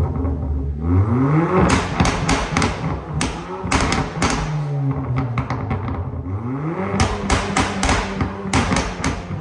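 Opel Insignia engine revved twice through an aftermarket exhaust, its pitch climbing and holding each time, with repeated sharp cracks throughout.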